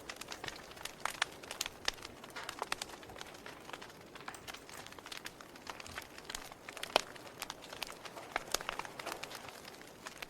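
Wood fire crackling: irregular sharp pops and snaps over a soft steady hiss, with one louder snap about two-thirds of the way through.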